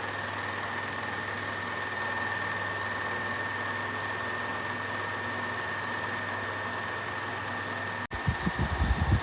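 Boxer 12-inch box fan running steadily: an even hum with a constant high whine. About eight seconds in, the sound breaks off and loud irregular thumping begins.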